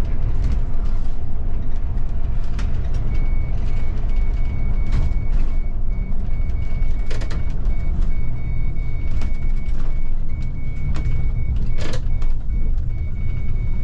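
A city bus running, heard from the driver's cab: a heavy engine and road rumble. A steady series of high electronic beeps, about two a second, starts about three seconds in. Occasional clicks and rattles sound over the rumble.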